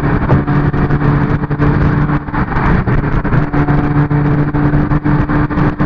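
Car driving along at a steady speed, a low engine drone heard under loud road and wind noise.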